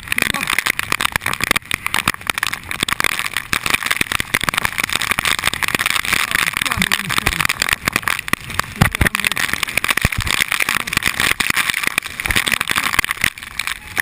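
Heavy rain pattering rapidly on a head-mounted GoPro Hero2's housing, with typhoon wind buffeting the microphone in low rumbles around the middle.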